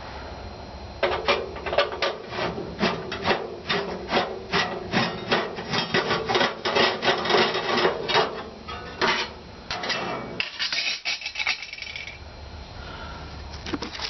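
Phillips screwdriver backing a screw out of a gas water heater's sheet-metal burner access cover, rubbing and scraping in short, even strokes, about two or three a second. Near the end comes a rougher scraping and rattle as the metal cover is worked off.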